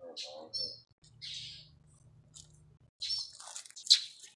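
Bird chirping in short high calls, with a louder, harsher run of calls in the last second and a half.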